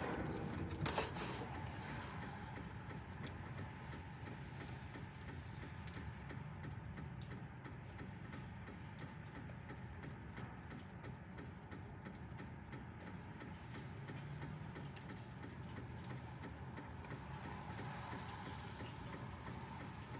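Night rain during a thunderstorm: a faint steady rush with scattered drips ticking, and one short louder sound about a second in.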